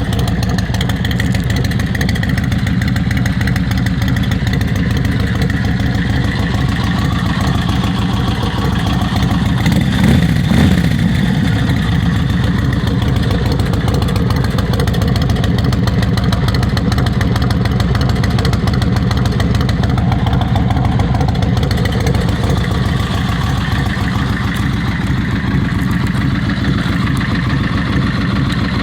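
2004 Yamaha Road Star 1700's carbureted air-cooled V-twin idling steadily through a 2-into-1 Vance & Hines exhaust. About ten seconds in, the revs rise briefly and settle back.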